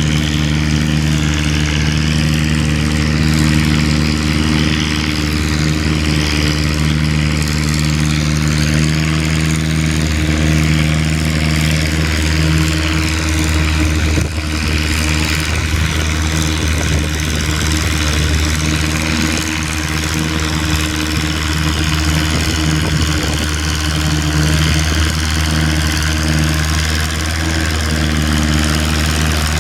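Antique tractor engine running at a steady speed, a loud, even, low-pitched drone that holds its pitch throughout.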